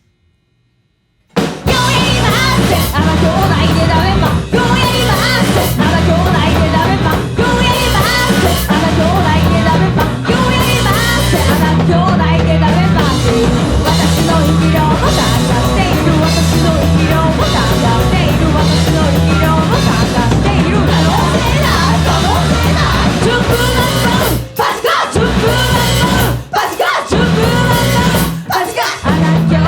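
Punk rock band crashing in together after a moment of silence, about a second and a half in: fast drums, distorted guitars and bass, with yelled and sung vocals. Near the end the band cuts out briefly three times in quick stops before coming back in.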